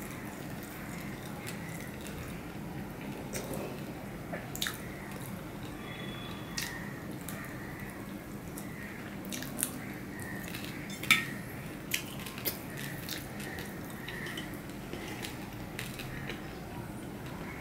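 Close mouth sounds of a man eating rice and fish by hand: wet chewing and lip smacks, with scattered sharp clicks, the loudest about eleven seconds in.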